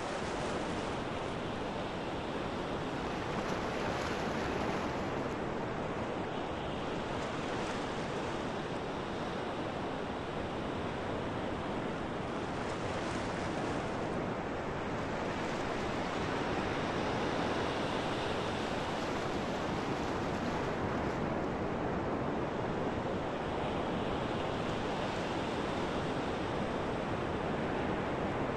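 Steady rushing of wind and water, an even, continuous noise without breaks.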